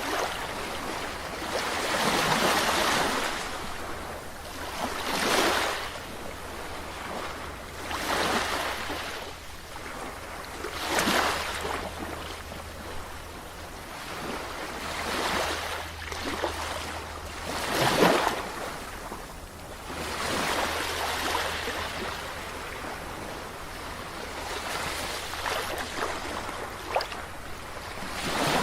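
Ocean waves washing in, in a series of noisy surges that each swell and fade over a second or two, one every two to four seconds.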